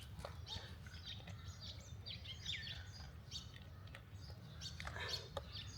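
Several wild birds chirping and calling, many short chirps and quick rising and falling notes, over a steady low background hum.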